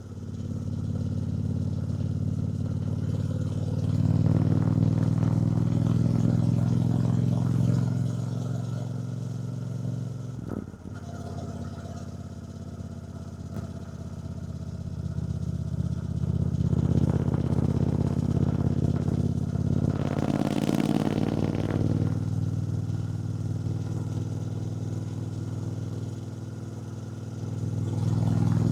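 2024 Triumph Bonneville T120's 1200 cc parallel-twin engine running under way, heard from the rider's seat: the engine note swells, drops briefly near the middle, then pulls up again. A short rush of noise comes about two-thirds through.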